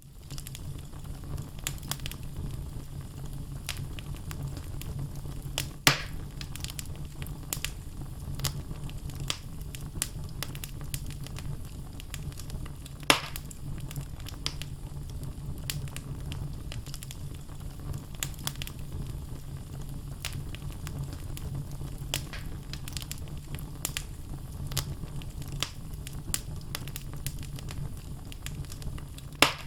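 Wood logs burning in a fireplace, crackling steadily over a low rumble of flame, with three sharper pops: about six seconds in, about thirteen seconds in, and near the end.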